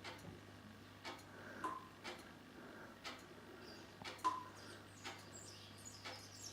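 Faint, regular ticking about once a second, with two brief high chirps among it.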